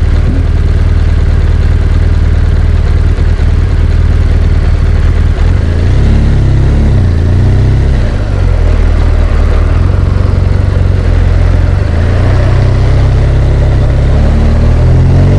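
BMW R1200GS Adventure's boxer-twin engine running under way, with wind and road noise. The engine note shifts in pitch about six seconds in and again near twelve seconds, as the engine speed changes.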